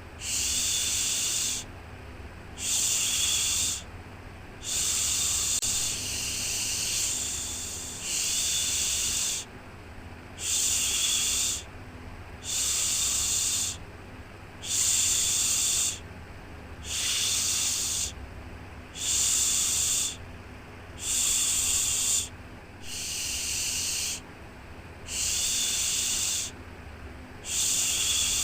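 Rhythmic shushing, a soft 'shhh' repeated about every one and a half to two seconds, each lasting about a second, over a steady low hum.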